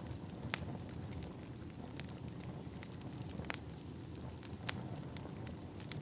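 Firewood burning: a steady low rumble of the fire with scattered sharp pops and crackles, the loudest about half a second in.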